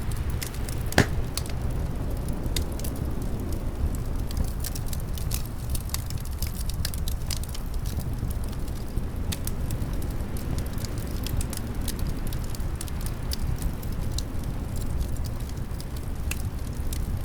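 Wood fire crackling in a fireplace, many small snaps and pops with a sharper pop about a second in, over a steady low rumble of winter wind.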